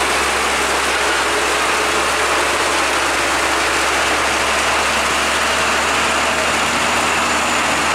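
Steady hiss of rain with a truck engine running steadily underneath, a low hum with a faint steady tone in it.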